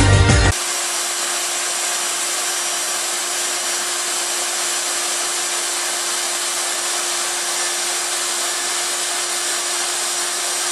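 Hand-held Leister Triac hot-air plastic welder running steadily, its blower fan and heater giving an even rushing air noise with a constant hum.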